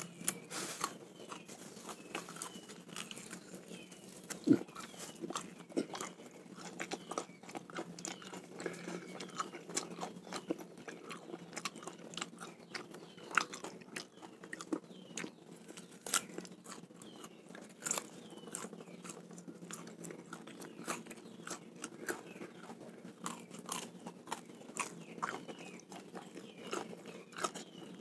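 Close-up chewing and biting of raw snakehead fish, with irregular wet clicks and smacks of the mouth throughout and one sharper click about four and a half seconds in.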